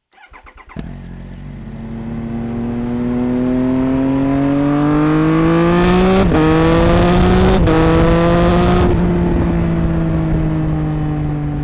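Triumph Tiger 800's inline-three engine pulling hard, its pitch rising steadily, dropping sharply at two upshifts about six and seven and a half seconds in, then falling slowly as the throttle eases off. A few quick pops in the first second.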